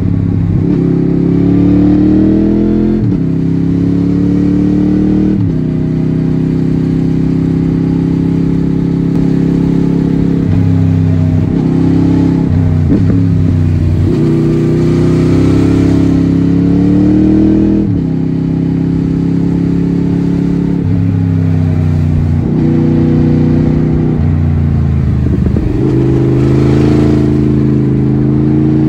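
Honda VFR800's V4 VTEC engine heard from the bike itself, its pitch climbing under throttle and then dropping back sharply, about ten times over, as it is ridden hard through the gears.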